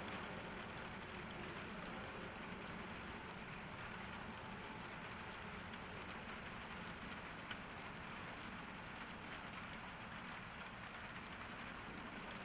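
Steady rain falling in a garden, a constant patter of drops with scattered faint individual drop ticks.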